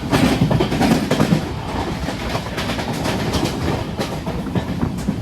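Freight train hauled by an Indian Railways WAG-12 electric locomotive running past on the track, its wheels clacking over the rail joints in a steady rumble, loudest in the first second and a half.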